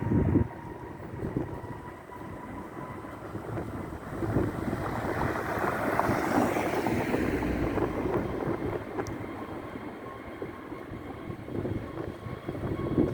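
Jet engines of an Airbus A321neo passing, a steady rushing noise that swells to its loudest about halfway and then fades. Wind buffets the microphone in low gusts at the start and near the end.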